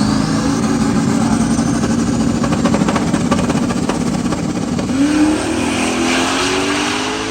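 Race car engine at full throttle, accelerating hard down a drag strip. The pitch holds steady, climbs again about five seconds in, then falls away near the end.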